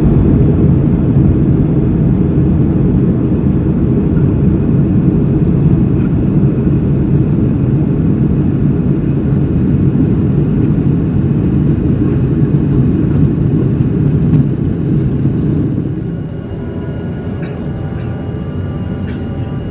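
Boeing 737-800 cabin noise: a steady low rumble of the engines and airflow. It drops noticeably in level about three-quarters of the way through, and a few faint steady tones come in after the drop.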